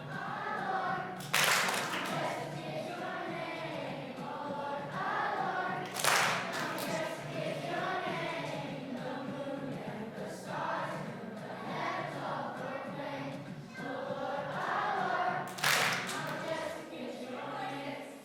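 A group of children singing a song together. Three brief loud bursts of noise stand out: about a second in, around six seconds in, and near the end.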